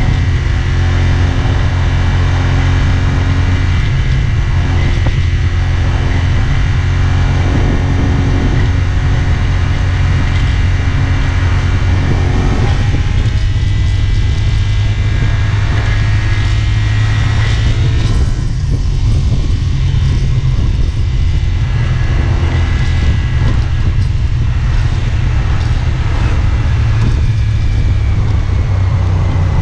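A CFMoto 450SR S parallel-twin motorcycle engine running under way with a steady low drone. Its engine note is clear for about the first twelve seconds, then becomes less distinct under a steady rush of noise.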